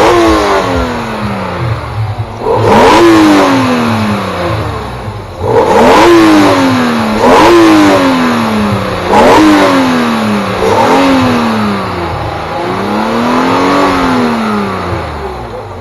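Car engine being revved hard while stationary, about seven times in a row. Each time the pitch shoots up and then sinks slowly back down. The last rev, near the end, rises and falls more gradually.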